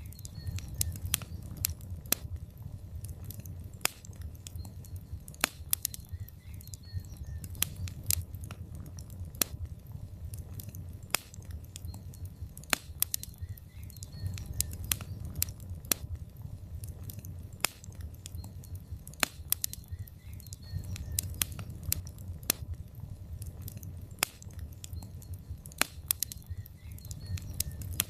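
Wood fire burning in a fireplace: logs crackling and popping in sharp, irregular snaps, several a second, over a steady low rumble of the flames.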